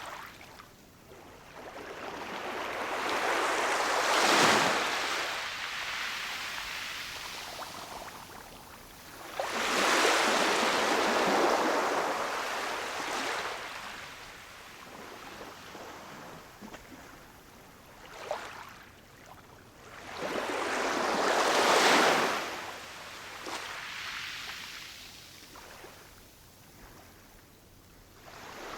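Ocean waves breaking on a shore: three waves in turn, each swelling to a break and washing out, with quieter wash between them.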